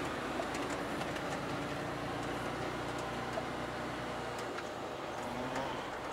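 Truck engine and road noise heard from inside the cab while driving slowly, steady, with small rattles and clicks; the low rumble eases about four and a half seconds in.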